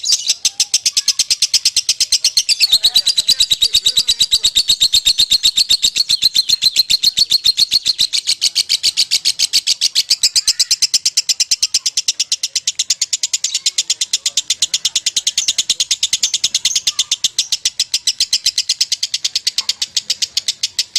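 Lovebird singing its long 'ngekek' chatter: one unbroken run of rapid, evenly repeated shrill notes, many a second, that goes on without a pause.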